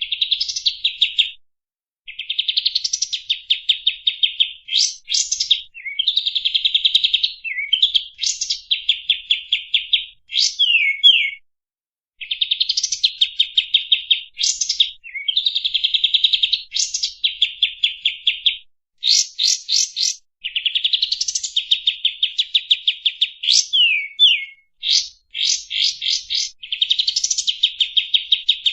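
Kapas tembak song, played as a masteran recording for training caged birds. Fast rattling trills alternate with sharp sweeping whistles, in phrases of a second or two with short pauses between them.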